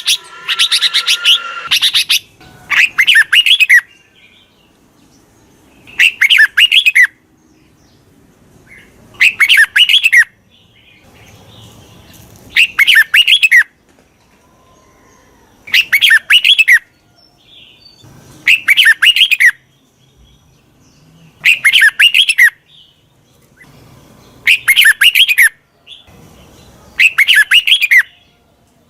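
Red-whiskered bulbul chirping the 'chích mào' call used by keepers as a lure call. It gives short phrases of rapid, falling chirps, each about a second long, repeated about every three seconds. The first two seconds hold a denser, continuous chattering.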